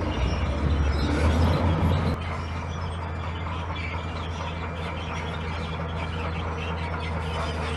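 Diesel engine of a heavy earthmoving machine running, louder and rattling for about the first two seconds, then dropping abruptly to a steady running hum.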